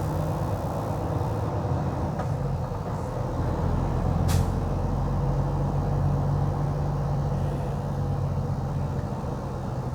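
Vehicle engine and road noise heard from inside the cabin: a steady low drone, with one short sharp click about four seconds in.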